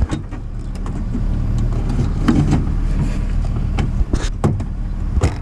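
Scattered clicks and knocks of parts being handled inside a car door as the door latch cable is worked free, over a steady low hum.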